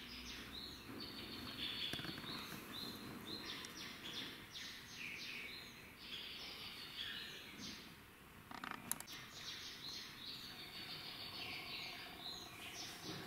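Cage birds chirping and twittering, many short high calls repeated throughout, with a single sharp click about nine seconds in.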